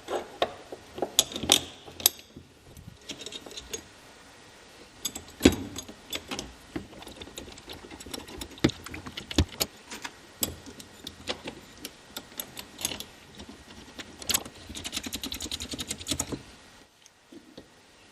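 Hand tools and small metal hardware clinking and clicking in irregular knocks, with a fast run of clicks near the end.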